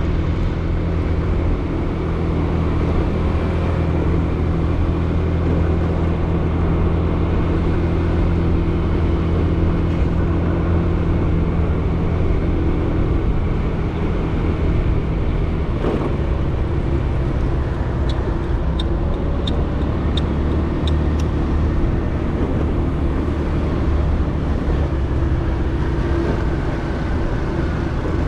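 Motorcycle engine running steadily while riding, with wind and road noise, picked up by a helmet-mounted GoPro Hero 8 whose foam sponge damps the wind. About two-thirds of the way through comes a short run of about six light clicks.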